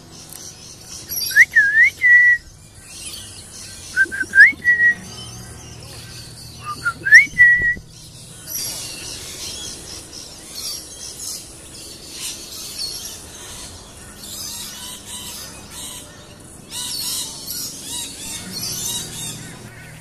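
A bird whistling three loud, clear phrases a couple of seconds apart, each a quick swooping glide that ends on a short held note. After them, a softer high-pitched chatter goes on.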